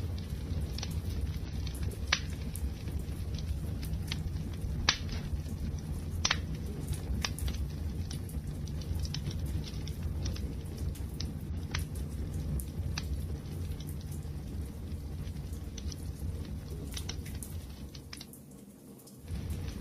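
Wood fire crackling: a steady low rumble of burning with scattered sharp pops and snaps, two louder pops about two and five seconds in. The sound dips briefly near the end.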